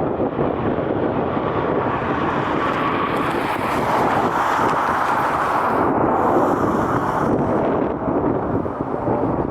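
Jet airliner engine noise, swelling to a peak about halfway through and easing off again, with wind buffeting the microphone.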